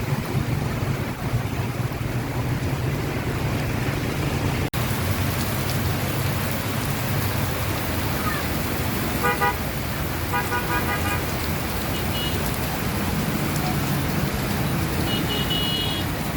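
Steady rain and street traffic, with a vehicle horn tooting about nine seconds in and again in a run of short beeps a second later. A higher-pitched beeping comes near the end.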